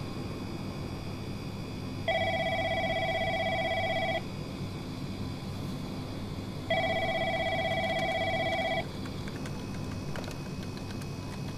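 Telephone ringing twice, each warbling ring about two seconds long with a pause of about two and a half seconds between, over a steady hiss of rain.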